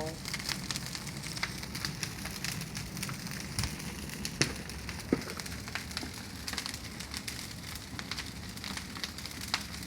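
Bonfire of dry wood burning, a steady hiss with constant crackling and sharp pops, the loudest a little over four seconds in.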